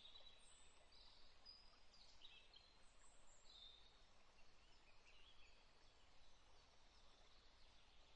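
Near silence: faint background hiss with a few faint, high-pitched bird chirps scattered through it.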